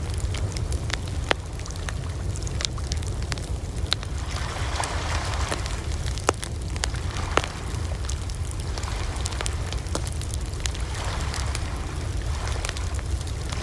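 Wood fire crackling, with frequent sharp snaps and pops over a steady low rumble of flame. Two louder pops come about a second apart midway.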